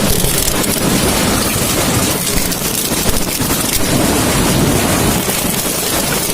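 Coconut shell-separating machine running with a steady, dense, noisy clatter.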